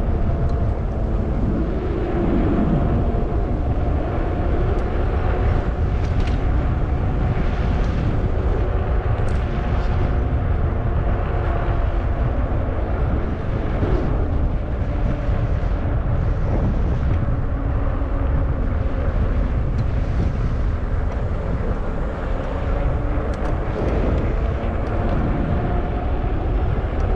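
Wind rumbling on the microphone while riding a Zota Zephyr fat-tire e-bike, with a steady humming whine from the bike that shifts in pitch a few times as the speed changes.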